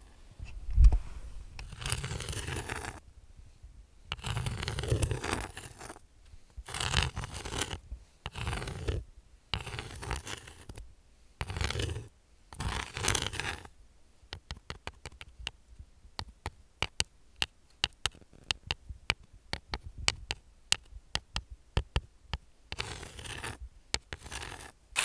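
Fingernails scratching in strokes of about half a second to a second, then switching about halfway through to quick, irregular tapping with sharp clicks for about ten seconds, before scratching again near the end.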